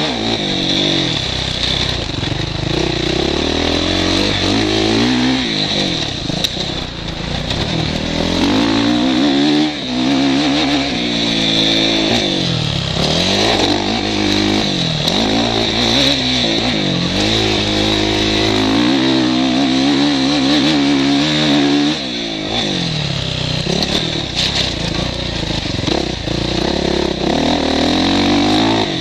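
Motocross bike engine, heard from the rider's helmet camera, revving up and dropping off again and again as the bike accelerates, shifts and slows through the track's sections.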